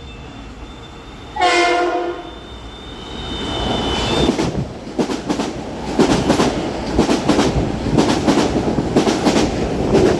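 Metro-North electric commuter train gives one short horn blast about a second and a half in. It then runs through, getting louder, its wheels clicking over the rail joints in a steady, repeating rhythm.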